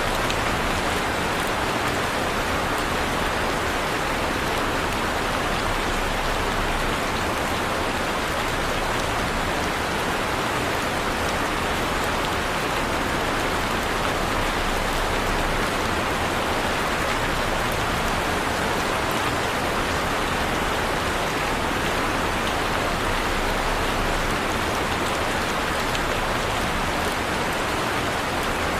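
Heavy rain falling steadily on a surface, a dense even hiss with no thunder or breaks.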